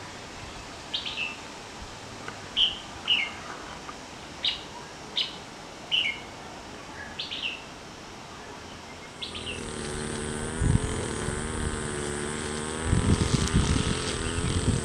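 A small bird chirping, short falling calls about once a second. About nine seconds in, this gives way to an insect's wavering buzz, with a steady high whine and a few low thumps.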